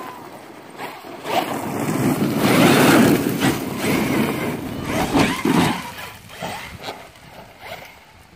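Electric brushless RC monster truck driving hard, its motor whine rising and falling, over a swell of rushing noise from the tyres that peaks about three seconds in.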